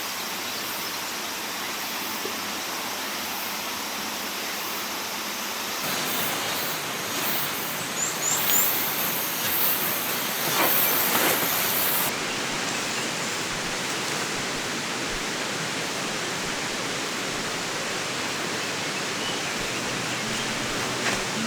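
River water flowing steadily, a constant rushing noise, with a few brief rustles between about six and twelve seconds in.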